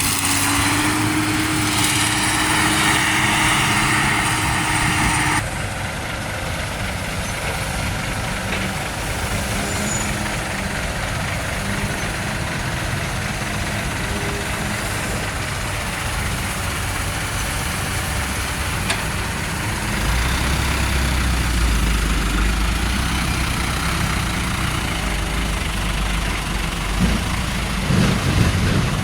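Heavy diesel truck engines running and idling. A higher, noisier engine sound with a steady whine stops abruptly about five seconds in. A deeper low rumble comes in about two-thirds of the way through.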